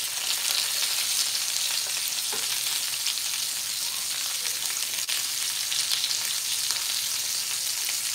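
Chicken frying in hot oil: a steady sizzle with small pops and crackles scattered through it.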